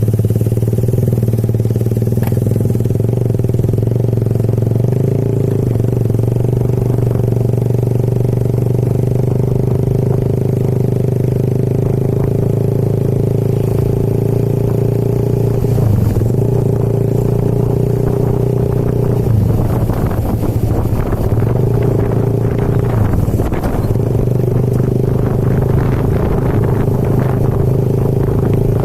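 Motorcycle engine running steadily under way, its note dipping and shifting briefly around the middle and again a little later.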